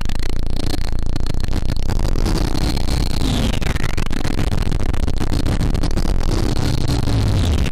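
Soma Lyra-8 synthesizer making a dense, noisy drone with a heavy low hum. A swooping sweep in the upper range dips in pitch and comes back up about every four seconds.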